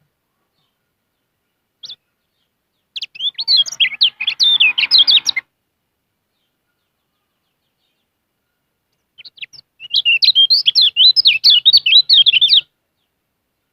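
Kecial kuning, a white-eye, singing. One short chirp is followed by two fast, twittering phrases of high, wavering notes, the first about two and a half seconds long and the second about three and a half, with a pause between them.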